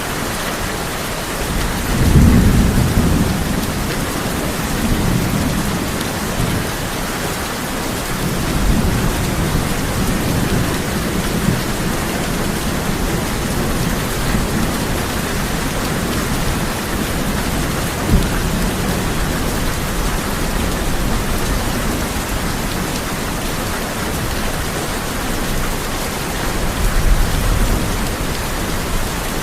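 Steady heavy rain drumming on a tin roof, with rolling thunder. A loud roll comes about two seconds in, lower rumbles follow over the next ten seconds, a single sharp crack comes midway, and another rumble comes near the end.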